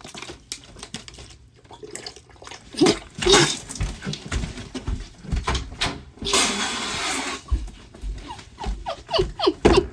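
A dog barking repeatedly, amid knocks and scuffling, with a rush of noise lasting about a second a little past the middle.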